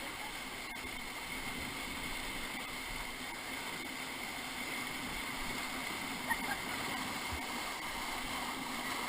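Steady rushing of river water around a raft.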